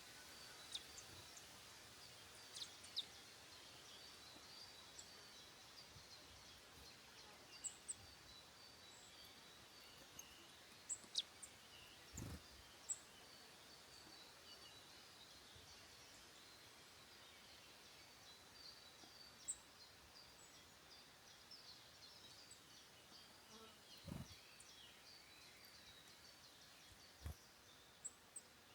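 Quiet woodland ambience with scattered short, high bird chirps and calls, a few sharp ticks, and two soft low thuds.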